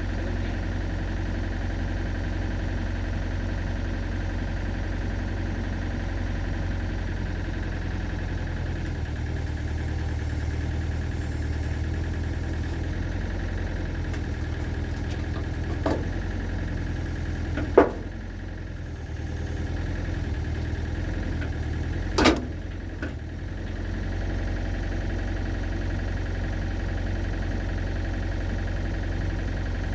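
Excavator's diesel engine running steadily while its bucket pulls on a chain hooked into a truck-body dent. Three sharp metallic knocks come about halfway through and toward two-thirds of the way, and the engine note dips briefly after the louder ones.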